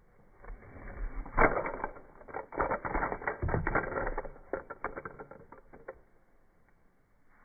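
A rapid, irregular run of knocks and clatters, loudest about a second and a half in, thinning out and stopping about six seconds in.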